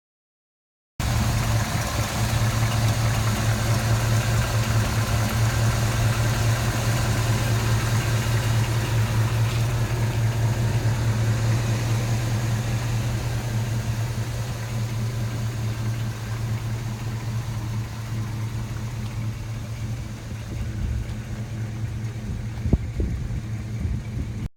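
1972 Chevrolet K10's 350 V8 with dual exhaust idling steadily, a deep even rumble with no revving. A single sharp click sounds near the end.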